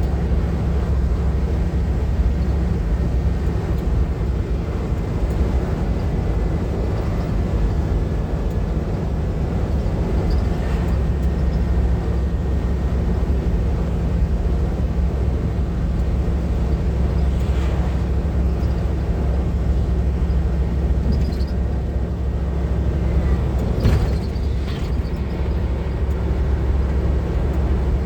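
Steady low rumble of a custom van's engine and tyre noise, heard from inside the cab while driving along the road. A short sharp click comes near the end.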